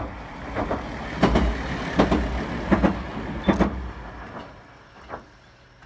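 Aizu Railway AT-500 series diesel railcar running over a steel girder bridge: its wheels knock over the rail joints in close pairs about every three-quarters of a second above a low engine rumble. The sound fades away after about four seconds as the car passes.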